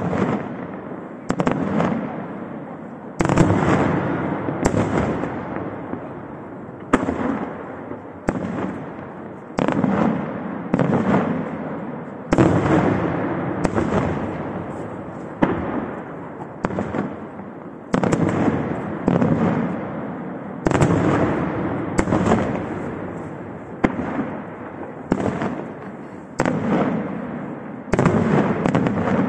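Fireworks display: aerial shells bursting one after another, a sharp bang every second or two, each trailing off in a long echoing rumble.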